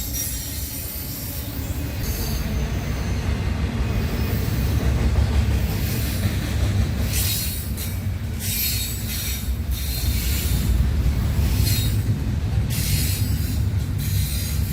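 Freight train rolling past: a steady heavy rumble of the cars on the rails, with short hissing bursts from the wheels now and then in the second half.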